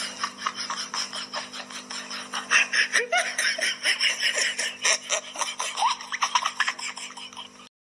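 A person laughing hard in quick breathy bursts, several a second, with a few squeaky rises in pitch; it cuts off suddenly near the end.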